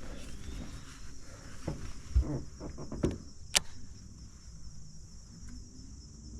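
A few knocks and clicks, the loudest about two seconds in and a sharp click about three and a half seconds in, over a steady high hiss and low rumble.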